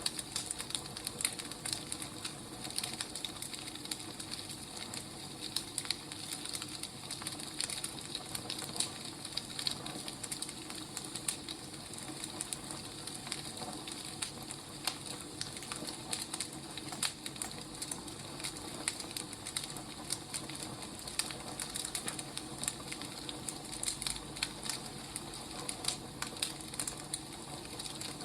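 Firewood burning: a steady hiss with frequent irregular sharp crackles and pops.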